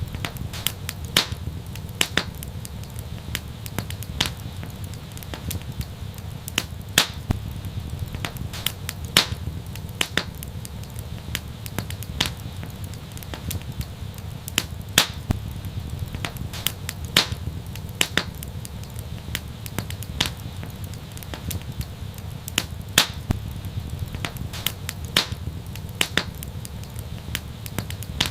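Wood fire crackling in an outdoor fireplace: irregular sharp pops and snaps, several a second, over a steady low rumble of burning.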